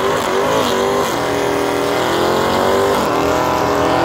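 A drag car's engine is held at high revs during a burnout. Its pitch climbs slowly, dips briefly about three seconds in and then holds high again.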